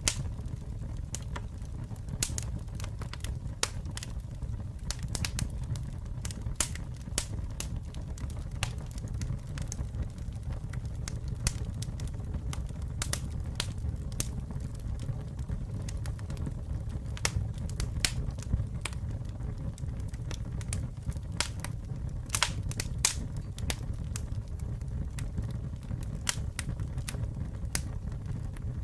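Campfire burning with a steady low rumble of flame and irregular sharp crackles and pops of burning wood, a few louder pops clustered about three-quarters of the way through.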